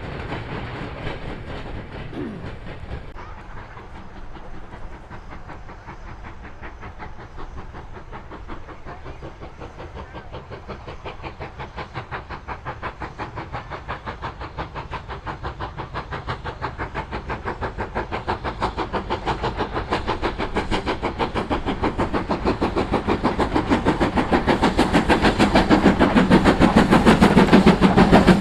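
Steam locomotive and its train approaching, a fast rhythmic beat growing steadily louder through the second half.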